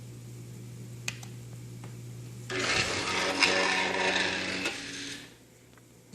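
Small motor-driven mechanism running with a rubbing, grinding whir for about two seconds, then fading out. Before it there is a faint steady hum and a single click about a second in.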